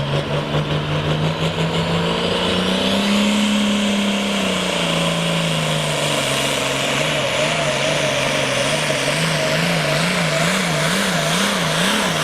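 Hot stock pulling tractor's turbocharged diesel engine running at full load on the sled, with a high turbo whine over it. The engine pitch climbs, sags, then wavers up and down about one and a half times a second as the tractor bounces down the track, typical of wrong tire pressure.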